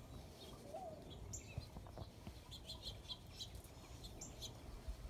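Small birds chirping: scattered short, high chirps, with a quick run of several about two and a half seconds in, over a low background rumble.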